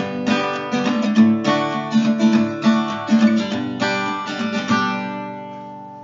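Background music: an acoustic guitar strumming in a steady rhythm, ending on a final chord that rings and fades out over the last second or so.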